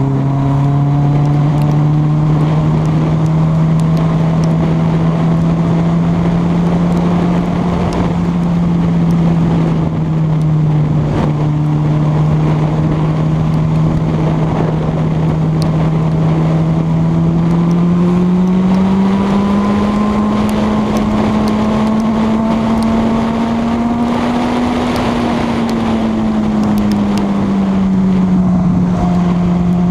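Honda CB1000R inline-four engine running at a steady cruise, with wind rushing over the microphone. The engine note climbs gradually past the middle, holds, then drops back near the end.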